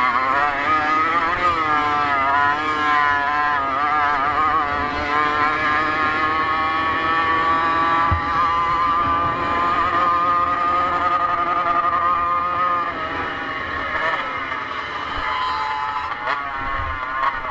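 Motocross motorcycle engine running hard, its pitch rising and falling with the throttle and gear changes; it holds a steady high note for several seconds in the middle, then drops back lower near the end.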